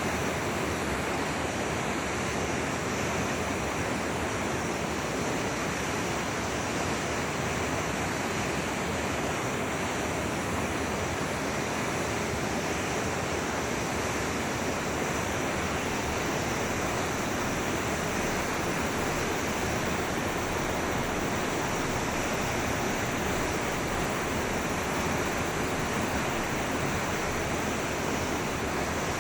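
Steady rushing of a flowing stream, an even wash of water sound that holds constant throughout.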